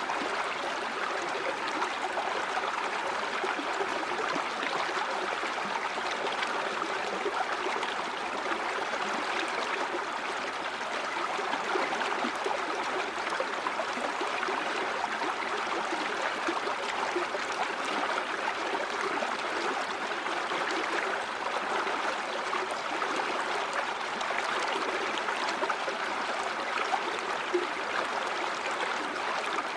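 River or stream water running steadily over rocks, a continuous rushing and burbling with small splashes.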